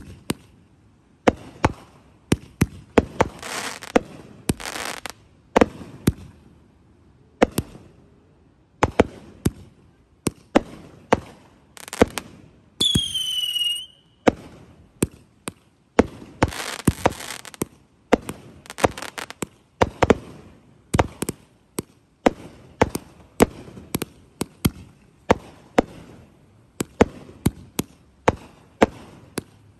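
Fireworks going off in quick succession: dozens of sharp bangs, several longer hissing rushes, and a whistling firework about twelve seconds in whose pitch slides down and then holds.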